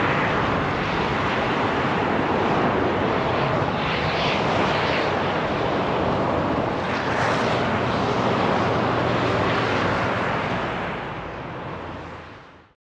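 Steady outdoor rumble with a faint low hum underneath, fading out to silence near the end.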